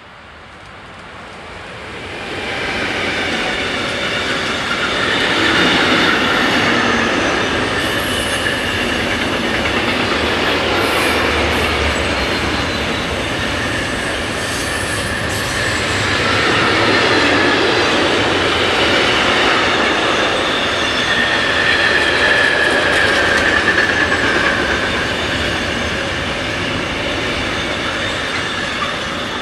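Electric locomotive and a long container freight train passing close by. The sound swells over the first two to three seconds as the locomotive arrives, then holds as a steady rolling of wagon wheels on the rails, with high ringing tones from the wheels.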